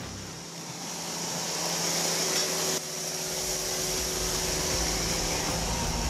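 Yanmar diesel tractor running steadily at work, a steady mechanical drone with a hissing, fan-like whir on top, briefly broken about three seconds in.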